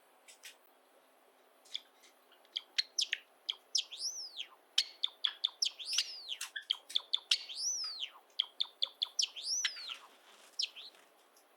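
Pet Java sparrow singing its song: a few sharp clicks, then a fast run of chirping and clicking notes with several long whistles that rise and fall, stopping about a second before the end.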